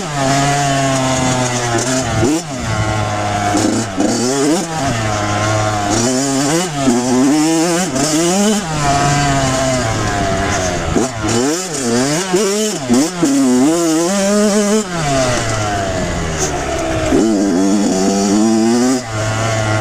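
Kawasaki KX100 two-stroke dirt bike engine revving up and dropping back again and again as the rider rides the track. There are short stretches of steadier lower running between the revs.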